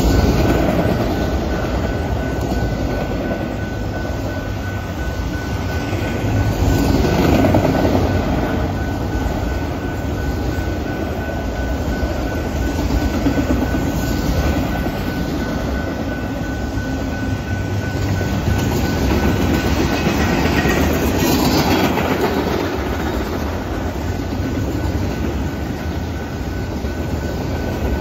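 Freight cars of a Canadian Pacific manifest train rolling past, a steady rumble of steel wheels on the rails that swells a little twice, with a faint steady high tone throughout.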